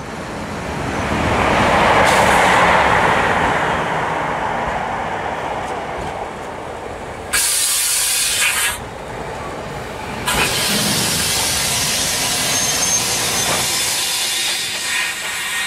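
A train of London Underground battery locomotives passing, its rumble swelling to a peak about two seconds in and then easing off. Loud high hissing starts and stops suddenly twice: once for about a second and a half around the middle, then again for the last five seconds.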